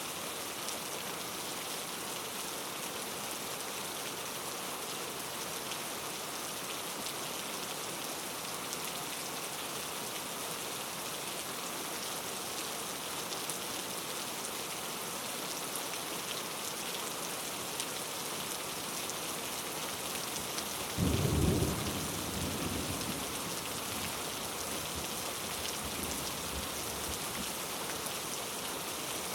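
Steady rain falling, with one sudden clap of thunder about two-thirds of the way through that rumbles away over a few seconds.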